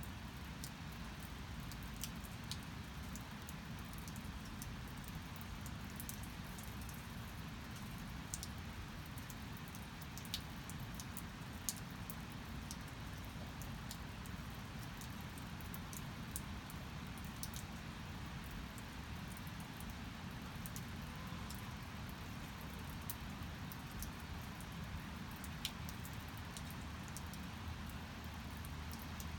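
Steady rain with scattered sharp taps of single drops.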